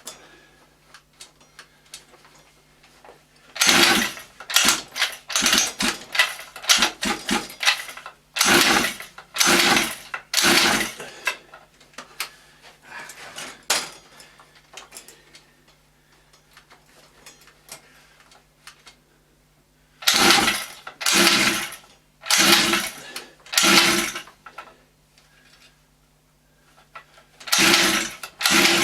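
Small two-stroke mini dirt bike engine being pull-started again and again, each yank of the recoil starter a short burst of cranking. The pulls come in several quick runs with pauses between, and the engine never catches; the owner suspects he has turned the idle screw too far.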